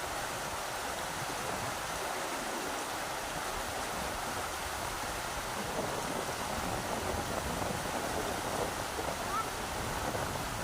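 Rushing river water: a steady rush of flowing water, with small splashes and gurgles standing out a little more in the second half.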